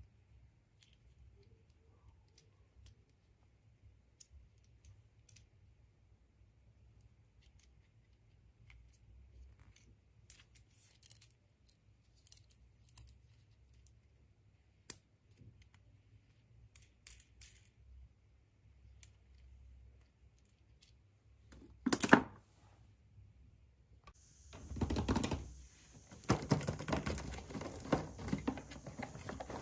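Hands handling packaging: scattered small clicks and light rustles, a single loud knock a little past two-thirds of the way through, then continuous crinkling and crackling near the end as something is unwrapped.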